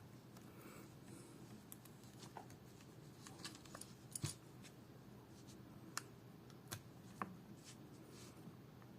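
Faint scattered small clicks and taps, a handful in all, the loudest a little before the middle, of small tools and parts being handled while a Samsung Gear S3 Classic smartwatch is taken apart.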